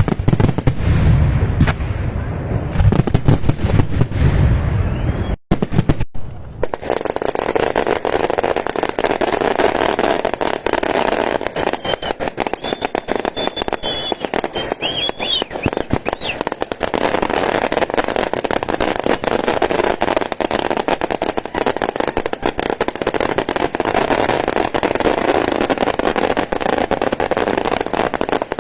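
Fireworks and firecrackers going off: dense, rapid crackling bangs, with deeper booms in the first few seconds and a brief break about five seconds in.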